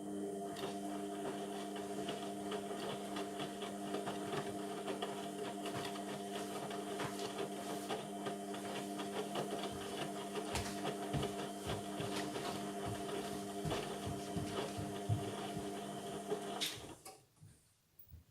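Indesit MTWC71252WUK washing machine's drum turning during the wash, a steady motor hum with the clicks and knocks of the load tumbling inside, stopping about 17 seconds in.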